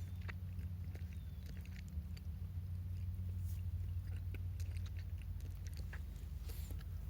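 Wood campfire crackling: irregular sharp little pops and snaps over a steady low rumble.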